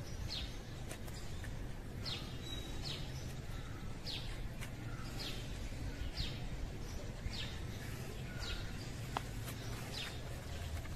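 A small bird repeating a short, high chirp about once a second, over a steady low background rumble.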